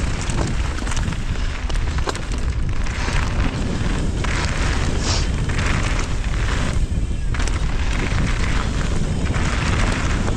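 Strong wind buffeting the microphone of a mountain biker's action camera as a steady heavy rumble, with surges of hiss from the tyres rolling over the dirt trail.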